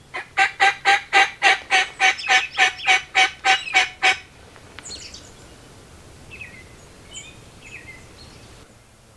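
A loud, rapid series of about sixteen evenly spaced turkey yelps, about four a second, lasting some four seconds. Faint small-bird chirps follow.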